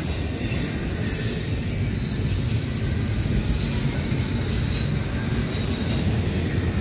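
Double-stack intermodal well cars of a freight train rolling past, their steel wheels on the rail making a steady low rumble with a high metallic hiss above it.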